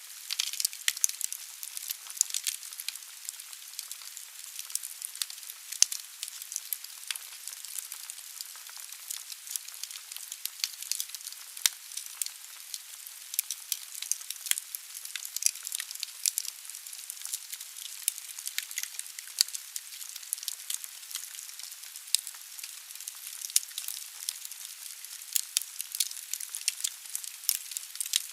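Wood fire burning in a fireplace: burning logs crackling with many irregular sharp pops and snaps over a soft, steady hiss of the flames.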